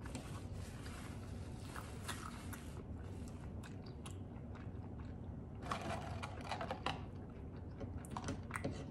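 Close-mic chewing of a mouthful of chicken sandwich, with soft mouth sounds over a low steady hum. Short crackly clicks come in two clusters, about six and eight seconds in, as fingers pick at fries in a paper carton.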